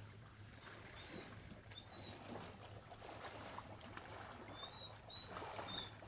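Faint water sloshing and rustling, with a low steady hum under it and a few very short high chirps scattered through.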